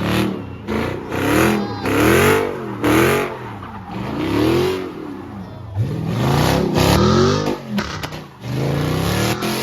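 A muscle car's V8 engine revving hard, over and over, its pitch swinging up and down about once a second.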